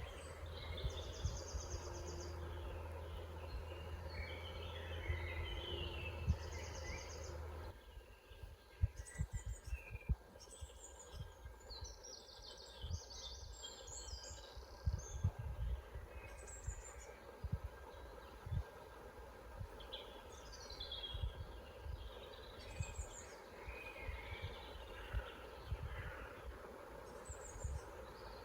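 Woodland songbirds singing and calling, many short chirps and phrases overlapping, with a fast repeated trill twice near the start. A steady low rumble lies under the birds for the first quarter and cuts off abruptly, and scattered low thumps follow.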